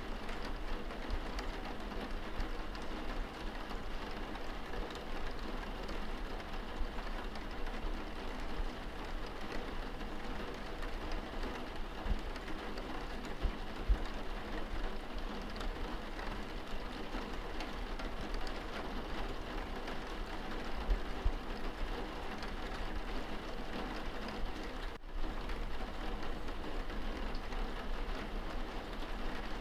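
Rain on window glass heard from inside a room: a steady patter with a few louder drops now and then.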